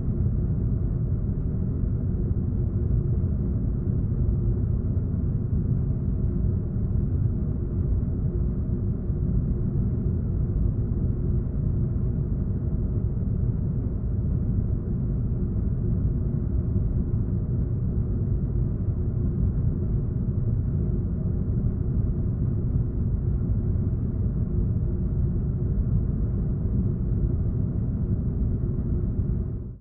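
Air vent giving a steady, deep bass rumble with a faint hum in it, cutting off abruptly at the very end.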